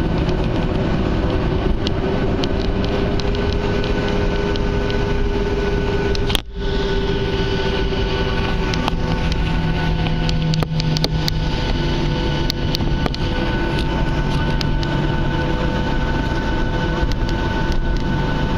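Boeing 737 jet engines running steadily, heard from inside the passenger cabin as a loud rush with several steady whining tones and scattered small rattles. The sound briefly drops out about six seconds in.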